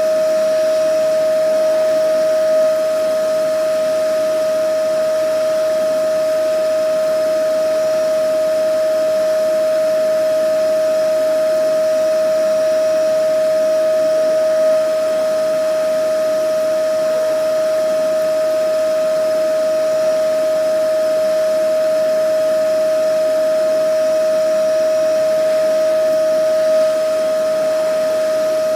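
Vacuum cleaner running steadily: a constant motor whine over an even rushing hiss, with a slight swell about every twelve seconds.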